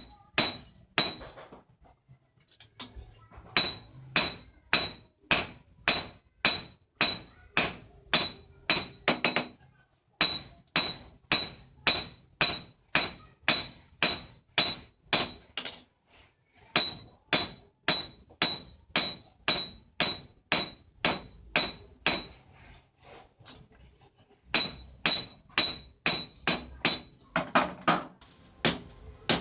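Hand hammer striking spring steel on an anvil, about two blows a second, each with a bright ringing clang. The blows come in runs broken by a few short pauses.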